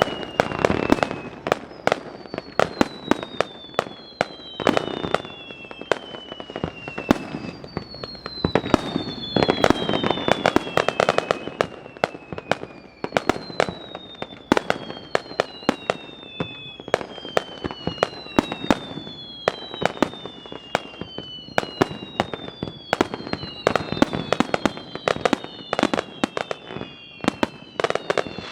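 A fireworks display: a rapid, irregular barrage of sharp bangs and pops from bursting shells. Over it runs a steady series of overlapping whistles, each falling in pitch over a second or two.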